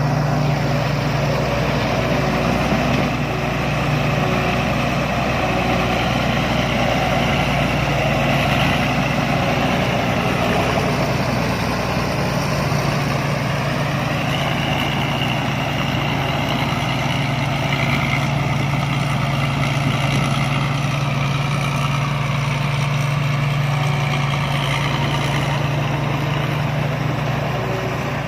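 Rice combine harvester's diesel engine running steadily, with a higher whine that drifts up and down.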